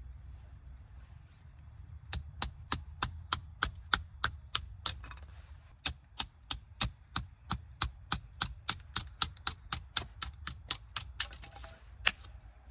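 A knife being batoned through a stick of dry firewood with a heavy flint stone: a steady run of sharp knocks, about three a second, for around nine seconds, then one last knock.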